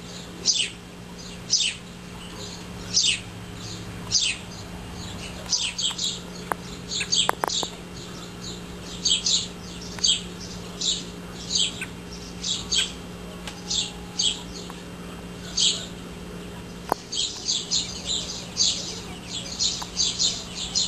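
A bird chirping over and over: short, high chirps that each sweep downward, about one or two a second, with quick runs of several together near the middle and near the end.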